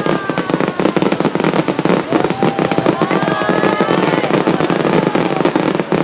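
Fireworks crackling in a dense, continuous barrage of rapid pops, with a few faint whistling tones gliding up and down in pitch over it.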